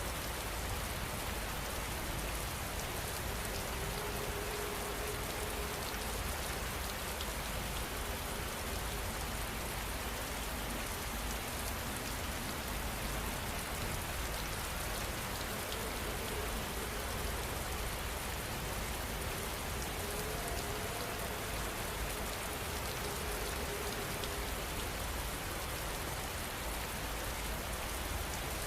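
Heavy rain falling steadily, an even hiss of countless drops on surfaces.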